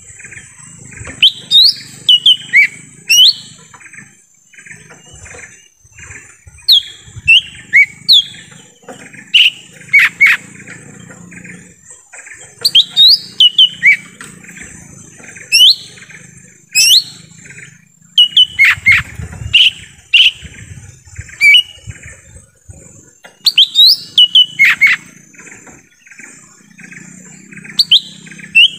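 Cucak ijo mini leafbird singing: loud phrases of quick, sharp whistled notes that swoop up and down, repeated in bursts every few seconds.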